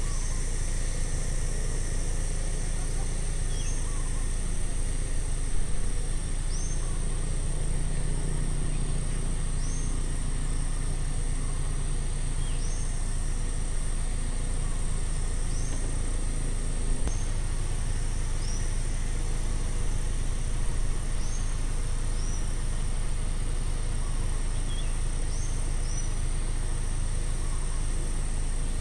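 Outdoor roadside ambience: a steady high-pitched insect drone, a bird's short high call repeating about every three seconds, over a steady low rumble.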